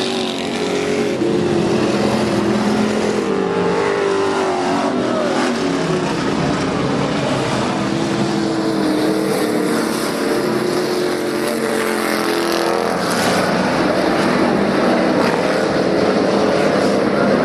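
A field of IMCA stock cars and trucks racing around a dirt oval, several V8 engines running hard at once, their pitch rising and falling as cars accelerate and pass by.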